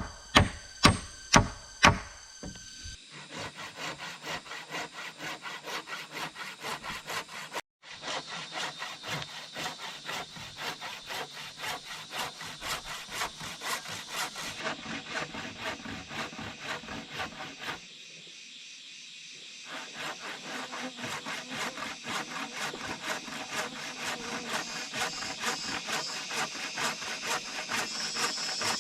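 A few loud chopping knocks, then a hand saw cutting through bamboo in quick, even back-and-forth strokes, about three a second, pausing briefly once partway through.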